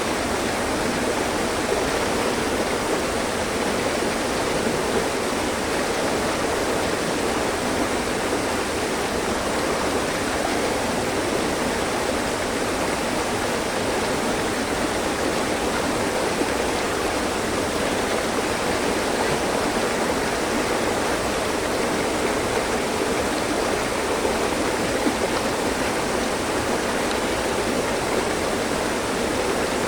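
Mountain stream with water running steadily over rocks: a constant, even rushing without pauses or changes.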